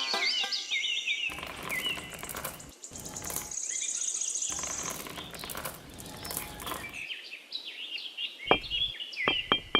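Birds chirping, with patches of hissing noise in the middle and a high trill about four seconds in. Near the end a run of quick, evenly spaced knocks starts, about three a second.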